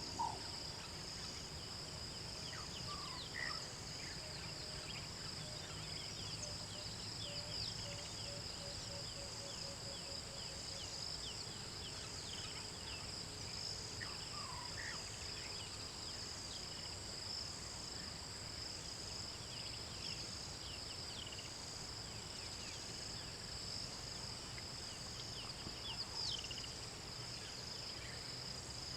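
A steady, high-pitched insect chorus, with scattered short bird chirps and a run of low repeated call notes from about six to eleven seconds in.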